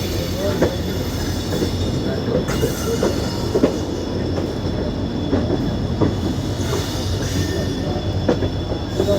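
Train moving off behind twin WDP4D diesel-electric locomotives: a steady low rumble with irregular knocks and clanks from the coaches and wheels, and a faint steady high whine.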